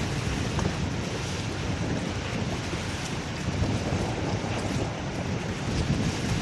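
Strong wind blowing across the microphone, a steady rushing noise with a low rumble that swells and eases slightly.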